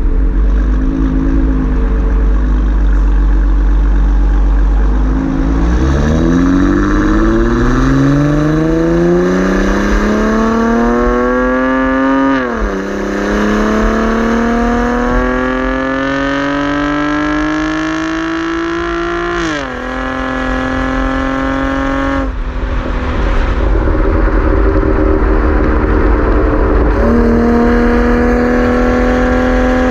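A 2016 Camaro's 3.6-litre V6 through a Borla ATAK axle-back exhaust, accelerating through the gears. The engine note climbs for several seconds and drops sharply at an upshift about twelve seconds in, then climbs again and shifts again near twenty seconds. It then eases off and settles into a steady cruising note near the end, over a constant low rumble.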